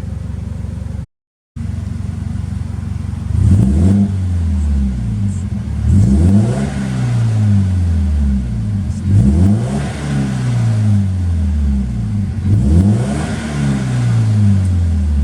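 Subaru Impreza WRX STI turbocharged flat-four engine idling, then revved about four times through a titanium muffler; each rev climbs quickly and falls slowly back to idle.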